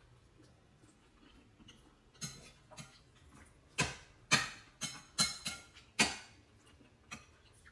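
Irregular knocks and clatters of kitchen utensils, with a few sharp loud ones bunched around the middle.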